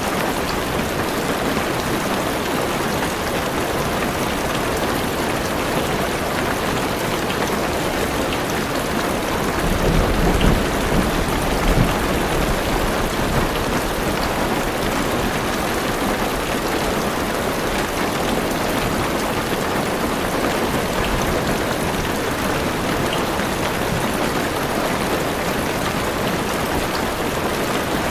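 Heavy rain drumming steadily on a car roof and windows, heard from inside the car. About ten seconds in, a low rumble of thunder rolls through for a few seconds.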